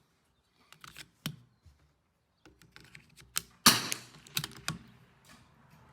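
CZ 457 bolt-action .22 rifle being worked between shots: a string of small mechanical clicks and clacks, with the loudest, sharpest clack a little past halfway.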